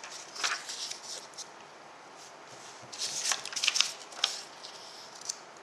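Paper rustling and light clicks, as paper and pen are handled: one brief bout about half a second in, then a denser flurry of rustles and ticks around three to four seconds in.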